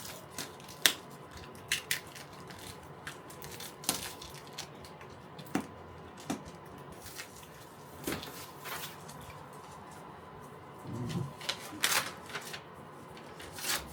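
A cardboard box being opened and its packing handled by hand: irregular clicks, crinkles and tearing of tape and paper.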